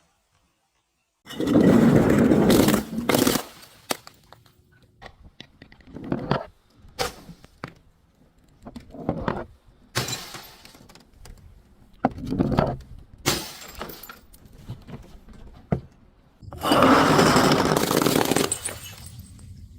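Brittle objects being crushed and broken: a long, loud crunching burst about a second in, then scattered cracks and shorter crunches, and another long, loud crunch near the end.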